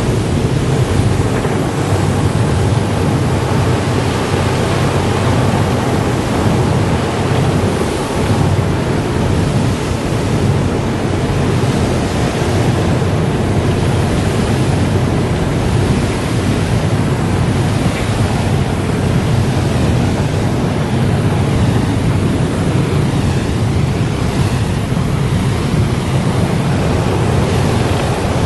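Car wash running: a loud, steady rushing noise with a low rumble underneath and no breaks.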